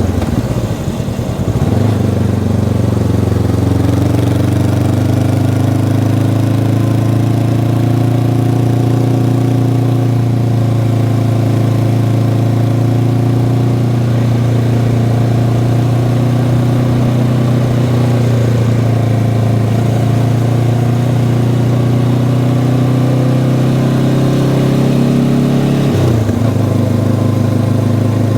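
Honda CB500X's parallel-twin engine on its stock exhaust, running at a steady pitch under way. The engine note dips and breaks briefly about a second in and again near the end.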